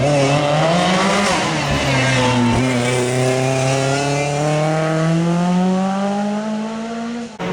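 Rally car engine pulling hard under load, its pitch rising slowly and steadily in one long gear while the sound gradually fades as the car moves away; it cuts off abruptly near the end.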